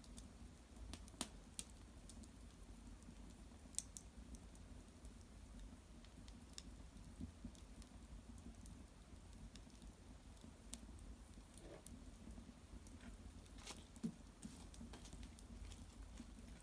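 Small wood fire crackling faintly: scattered sharp pops and ticks a few seconds apart, over a low steady hum.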